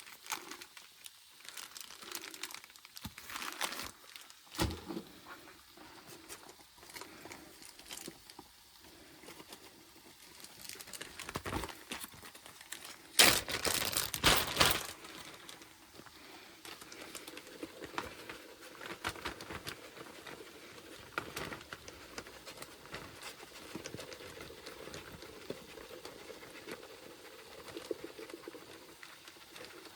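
Plastic bag crinkling and rustling as it is handled, in short scattered bursts, with a louder spell of crinkling about halfway through.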